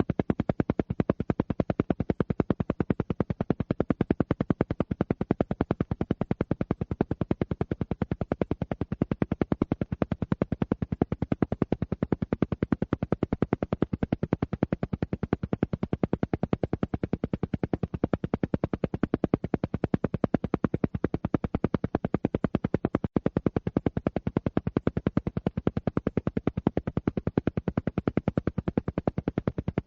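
Alpha-wave brainwave-entrainment audio: a low tone pulsing on and off in a rapid, perfectly even train of pulses, with one brief gap about three-quarters of the way through.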